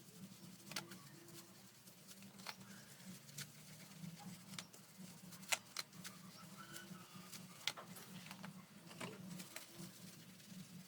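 Light, irregular clicks and taps with soft rubbing as an electric fan's parts are handled and cleaned, over a faint steady low hum.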